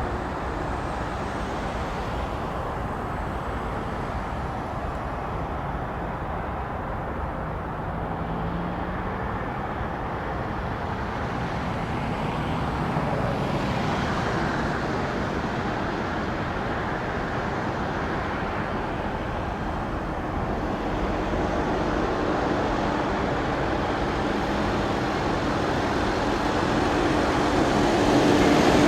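Jet airliner engines running, a steady rumble that grows louder near the end with a low hum coming in.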